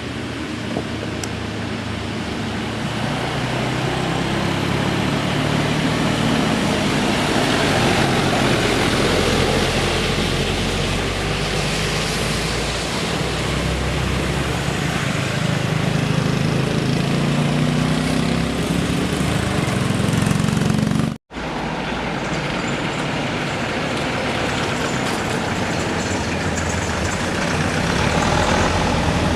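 Heavy road vehicle's engine running as it drives past, its pitch rising and falling with changes in speed. The sound breaks off for an instant about two-thirds of the way through, then continues with engine noise again.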